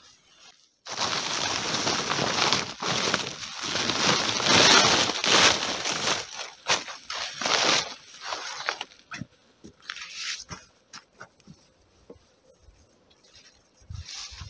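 A loud crunching, crinkling rustle that starts abruptly about a second in and lasts about seven seconds, then gives way to quieter scattered clicks and rustles.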